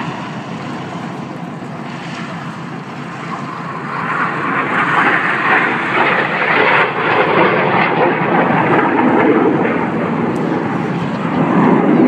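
BAE Systems Hawk T1 jets, each with a single Adour turbofan, passing in formation. The jet noise swells about four seconds in and stays loud.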